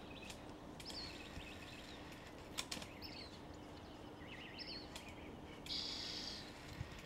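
Faint birdsong in a garden: scattered short, high chirps and warbles, with a brief trill about four seconds in and a longer high call near the end, over a low steady hum.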